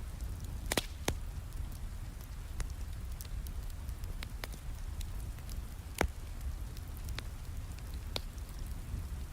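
Wood fire crackling with scattered sharp pops over a steady low rumble of rain.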